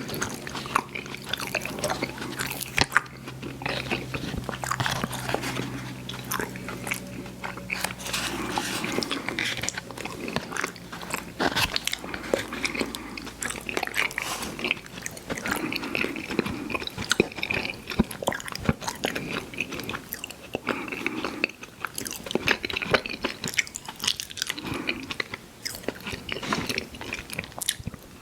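Close-miked chewing of chewy fruit candy: wet smacking and sticky mouth clicks, with occasional bites, irregular and continuous.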